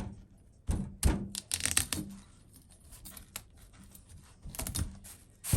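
Fresh broccoli being broken apart by hand: several bursts of crisp snapping and tearing as florets are pulled off the stalk, with quiet gaps between.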